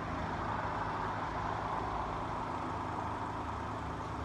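Engine of a nearby vehicle running steadily, a low hum under a hiss that swells and then eases off.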